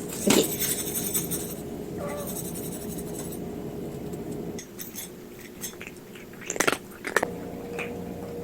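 A cat eating, with chewing and scattered short clicks and taps of food and bowl, over a steady low hum.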